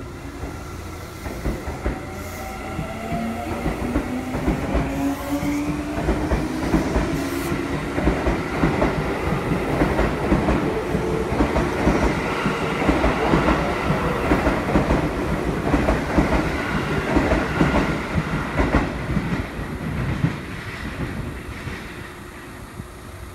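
Seibu 9000 series electric train (set 9106F) pulling out. The motors' whine rises in pitch as it gathers speed, then the wheels clack rhythmically over the rail joints as the cars pass. The sound fades near the end as the last car leaves.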